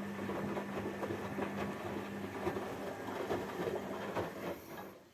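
Washing machine running: a steady motor hum with irregular clattering and knocking, which cuts off near the end.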